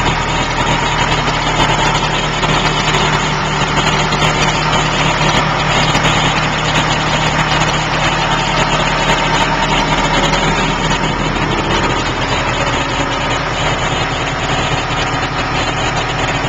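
John Deere 5525 tractor's diesel engine idling steadily, still warming up after a cold start.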